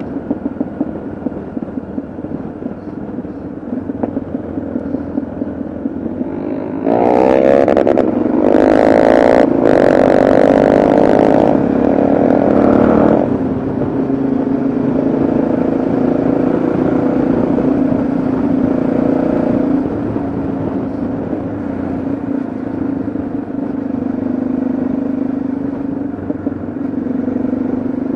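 Yamaha XT660Z Ténéré's single-cylinder engine running on the road. About a quarter of the way in it gets louder for some six seconds as it accelerates, its pitch climbing, then drops back to a steady cruise.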